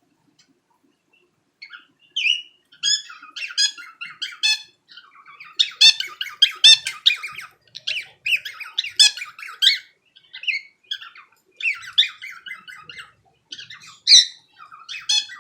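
Cockatiel chattering in a long run of quick, high chirps and warbles, starting about two seconds in.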